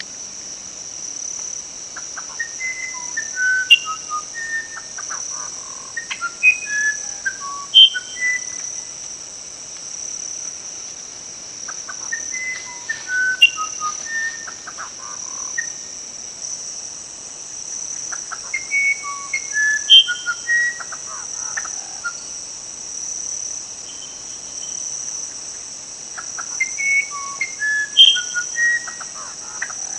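A songbird singing four phrases of clear whistled notes that jump up and down in pitch, one phrase every six to eight seconds, over a steady high-pitched insect chorus.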